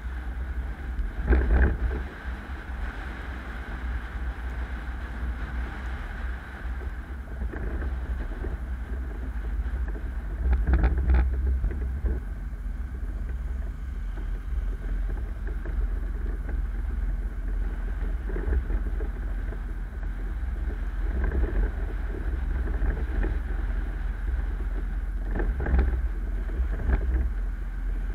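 Car driving: a steady low rumble of road and wind noise, with a few louder bumps about a second and a half in, around ten seconds in, and near the end.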